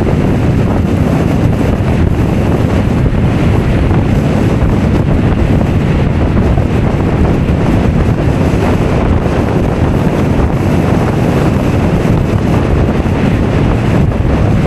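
Strong wind buffeting the microphone, a steady deep rumble, with ocean surf washing beneath it.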